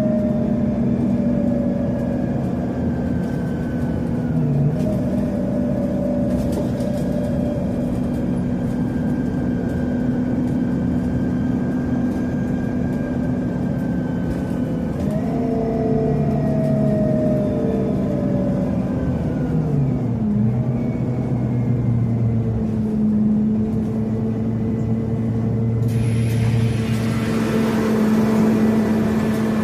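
Scania CN270UB city bus's CNG engine running while driving, heard from inside the bus. Its note slides down, climbs again about halfway through, then drops once more. A hiss comes in near the end.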